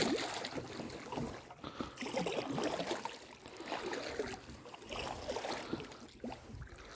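Water splashing and lapping around a kayak's hull and paddle as it moves through the water, an irregular patter of small splashes.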